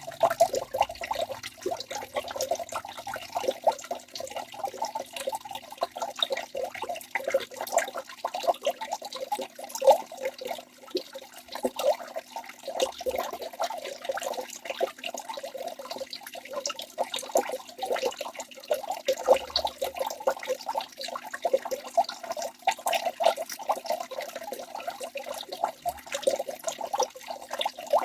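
Waterfall running steadily: a continuous splashing and gurgling of falling water made up of many quick splashes.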